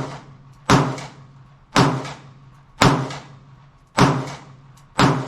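A semi-automatic firearm fired six times in steady succession, about a second between shots, each sharp report followed by a short echoing tail.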